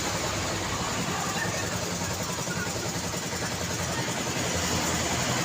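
Street traffic: cars and motorcycles running past and idling, a steady mix of engine noise and tyre hiss.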